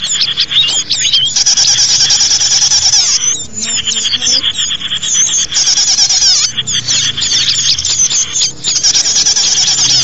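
Small songbirds calling in a dense, high-pitched chatter of rapid trills and chips, nearly continuous with a few brief pauses.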